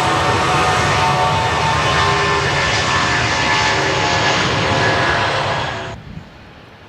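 Jet engines of an El Al Boeing 737-700 at high power: a loud roar with steady whining fan tones over it. The sound cuts off abruptly about six seconds in, leaving a much quieter background.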